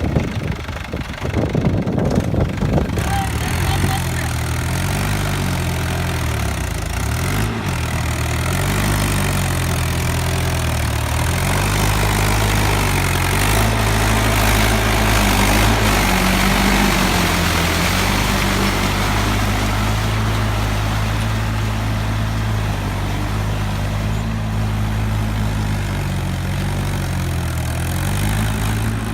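Mahindra 575 DI tractor's four-cylinder diesel engine running under load, its engine note rising and falling as it works. The first few seconds are rougher and uneven before the engine settles into a steadier run.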